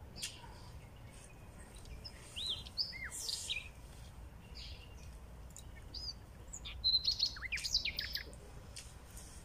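Small birds chirping: short, high calls with quick rising and falling notes, in a flurry about two seconds in and a busier one around seven to eight seconds, over faint low background noise.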